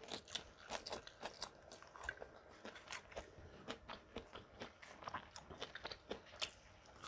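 A person chewing crunchy food close to the microphone, with many small irregular crunches and mouth clicks, faint throughout.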